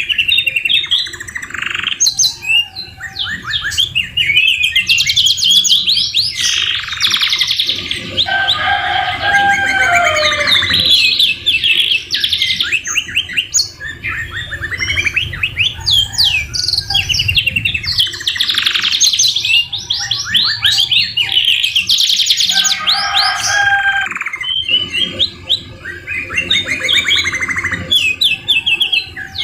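A domestic canary singing without pause: fast rolling trills and chattering phrases. Its song is filled with white-rumped shama (murai batu) phrases, heard as slower, lower whistles twice, about a third of the way in and again about three quarters through.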